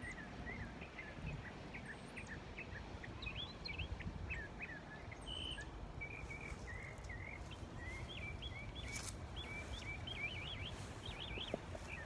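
Small birds chirping: many short, quick notes one after another, over a low steady background rumble.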